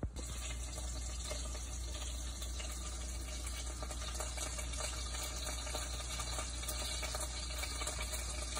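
Longganisa sausages sizzling in a frying pan: a steady crackling hiss that starts abruptly and holds evenly.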